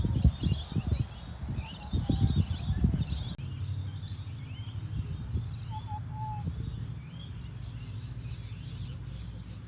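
Small birds chirping and calling over and over, with loud low rumbling noise in the first three seconds that gives way to a steady low hum.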